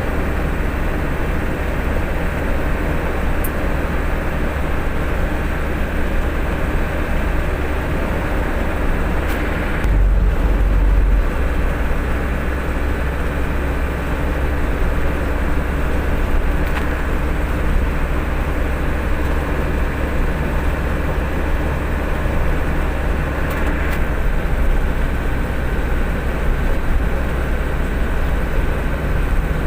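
Truck running with a steady low engine and road rumble and a constant drone, surging briefly about ten seconds in.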